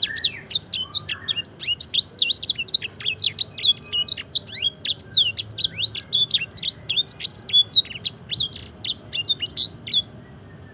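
Domestic canary singing a fast, continuous run of rapid sweeping notes, a song filled with blackthroat-style phrases; it stops shortly before the end.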